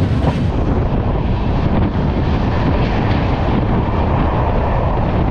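Avadh Assam Express passenger train running, a loud steady noise of the moving coaches, with wind blowing across the microphone.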